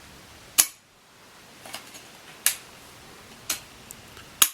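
Five or so sharp metallic clicks and taps, irregularly spaced, as small metal parts are fitted by hand into a motorcycle engine's crankcase.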